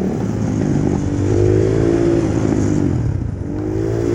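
Small single-cylinder pit bike engine running under throttle, its pitch rising and falling as it is revved twice.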